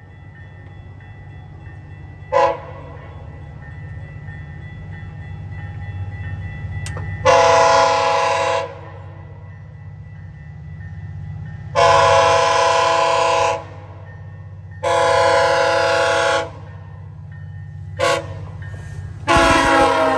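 GO Transit commuter train sounding its horn for a level crossing: one short blast, then three long blasts, a short one and a long one near the end, the crossing signal pattern. Under the horn, the rumble of the approaching train grows louder.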